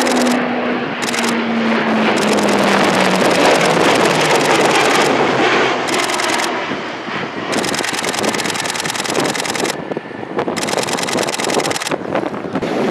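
E-2 Hawkeye's twin Allison T56 turboprop engines and propellers, loud as the aircraft passes, with a propeller tone falling in pitch over the first few seconds.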